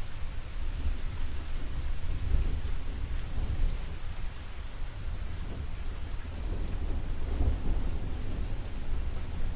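Steady rain with a low rumble of thunder that swells twice, once about two seconds in and again about seven seconds in.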